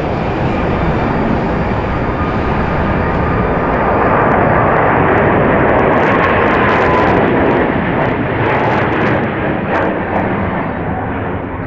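Jet airliner's engines: a loud rushing noise that swells to a peak midway and then fades, as the aircraft passes.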